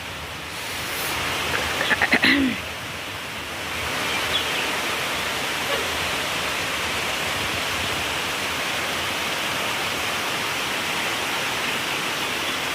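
Heavy rain falling steadily, a continuous hiss that grows a little louder about four seconds in. A brief voice is heard about two seconds in.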